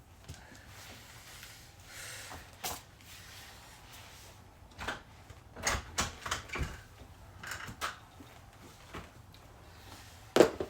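A series of irregular knocks and scuffs, clustered in the middle, with one louder knock near the end.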